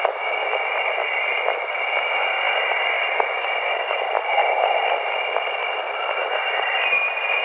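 Spacecraft radio or plasma-wave recording played back as sound: a steady hiss of static with scattered faint crackles and a few steady high tones.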